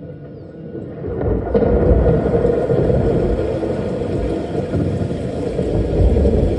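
A loud, deep rumble that swells about a second in and holds steady, dense and noisy with no clear pitch.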